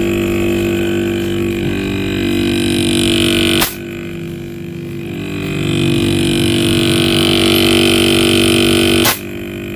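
Angle grinder with a cutting disc running steadily as it cuts around the welded seam of a refrigerator compressor's steel shell. It is a continuous drone that dips and swells, broken off abruptly twice.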